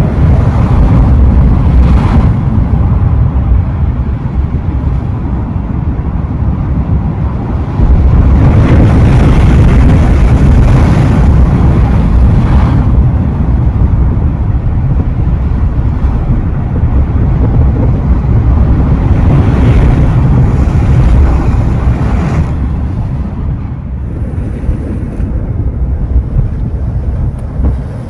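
Ocean surf washing onto the shore, with heavy wind buffeting the microphone in a steady low rumble. Two louder surges of breaking surf swell up about a third of the way in and again past two-thirds.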